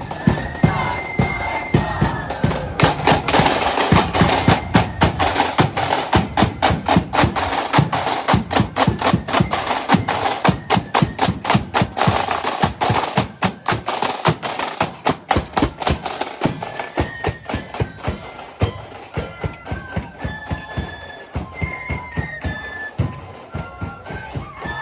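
Marching band drums, with fast snare drumming and rolls over a bass drum beat. High held notes, likely flutes, sound briefly at the start and come back about two-thirds of the way through.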